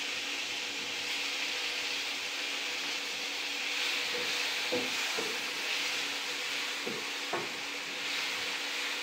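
Chopped onion and tomato sizzling steadily in hot oil in a nonstick frying pan while being stirred with a wooden spatula, which knocks against the pan a few times in the second half.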